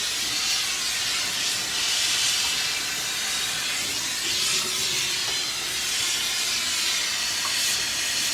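Jeweler's torch flame with a steady, nice howl, heating gold in a casting crucible.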